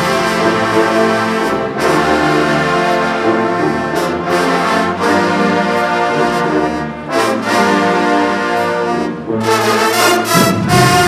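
Marching band brass section playing long, full chords, with low brass carrying the bass line underneath; sharp accented hits come in near the end.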